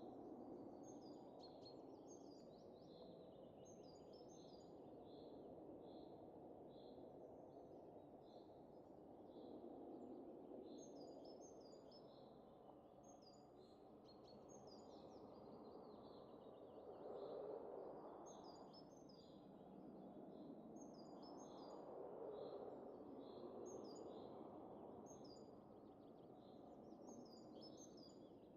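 Faint soft wind rising and easing in slow gusts, with small birds chirping over it in quick repeated notes throughout.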